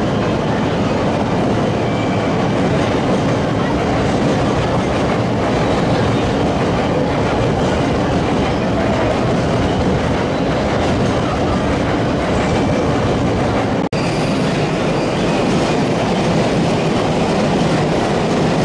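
E7 series Shinkansen train running slowly in over the station's points: a steady rumble of wheels on rail. There is a momentary break about fourteen seconds in, after which a faint high whine joins.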